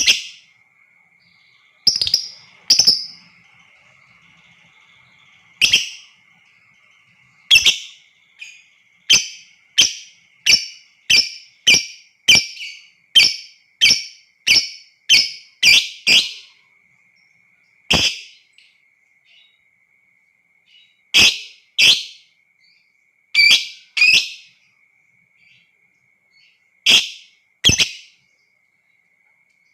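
Lovebird giving short, shrill single calls one after another, with gaps between them, coming about one a second through the middle stretch. A faint steady high tone runs underneath.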